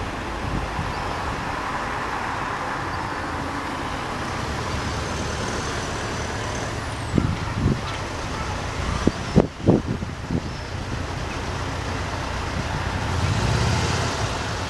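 A steady rush of passing vehicle noise at a level crossing, with a few short low thumps around the middle and a slight swell near the end.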